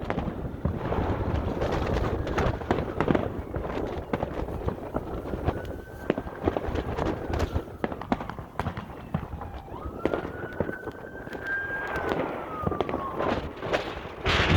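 Fireworks going off in a rapid series of bangs and crackles, with strong wind buffeting the microphone in a heavy low rumble.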